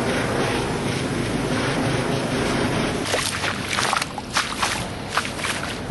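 Rushing floodwater with wind on the microphone, a steady rumbling noise. About halfway through it turns to a series of short, sharp swishes.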